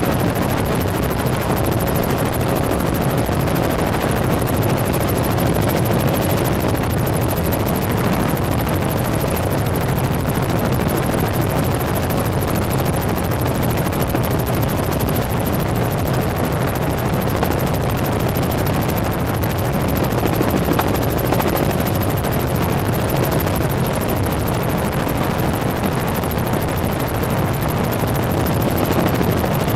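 Helicopter in flight: steady, unbroken engine and rotor noise.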